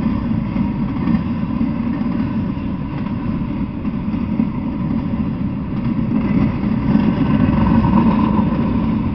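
Intermodal container freight train rolling past: a steady rumble of its wheels and cars on the rails, getting a little louder near the end.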